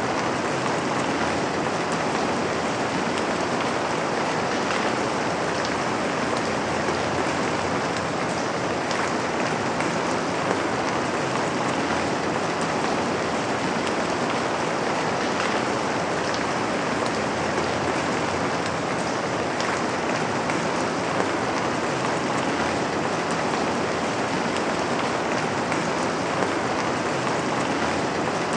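Steady, even rainfall on a window, with scattered sharper ticks of single drops.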